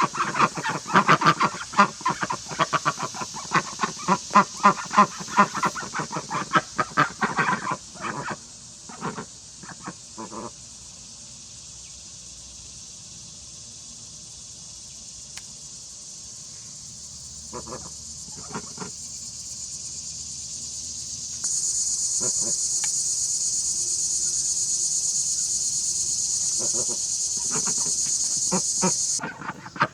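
Insects chirring steadily, a high-pitched drone that jumps louder about two-thirds of the way through. For the first eight seconds a louder run of rapid pulsed animal calls lies over it, with a few short calls later on.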